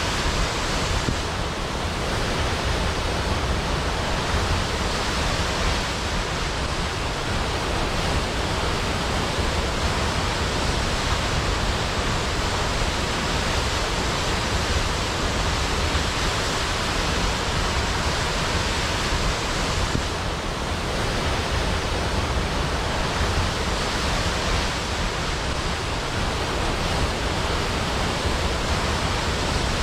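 A large waterfall pouring steadily into a pool: a constant deep, full rush of falling water.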